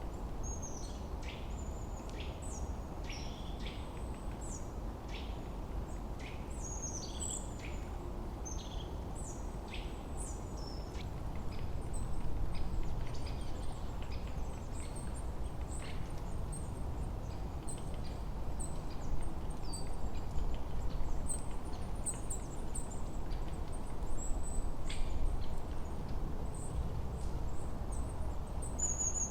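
Forest birds chirping in many short, quick, high calls, thick over the first dozen seconds, then sparser, picking up again near the end. Underneath runs a steady low rush of wind.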